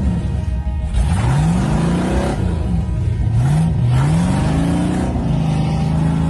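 Heavily modified truck's engine revving hard several times, rising and falling in pitch, as its tires spin in mud on a steep hill climb.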